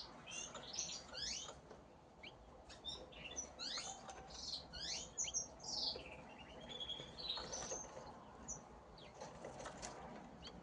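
Canaries chirping: a run of short, quickly falling call notes for the first eight seconds or so, then only a few faint clicks.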